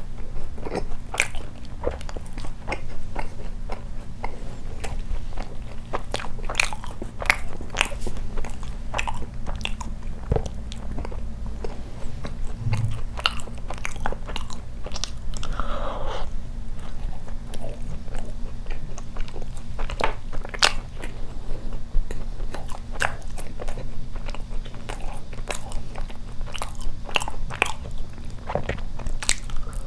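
Close-miked eating of glazed doughnuts: bites and chewing, with many short mouth clicks all through. A steady low hum runs underneath.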